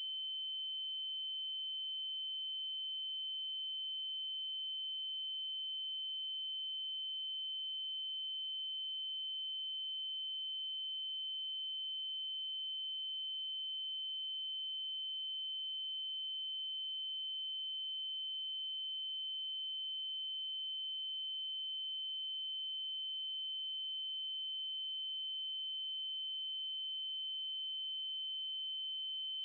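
Steady synthesized 3072 Hz triangle-wave tone: a single constant high-pitched electronic pitch that holds without change.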